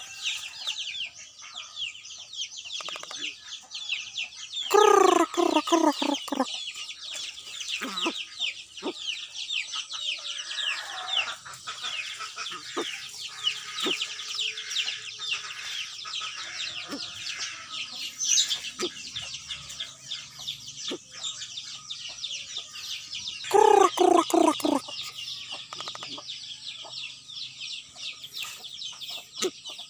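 Birds calling: continuous dense high-pitched chirping, broken twice by a loud, falling call about a second and a half long, about five seconds in and again near the end.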